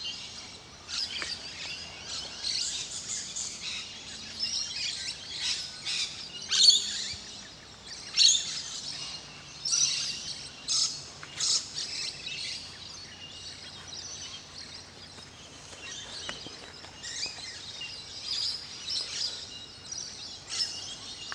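Several small birds chirping and calling in short, sharp notes, busiest through the first dozen seconds and again near the end, with a lull in between.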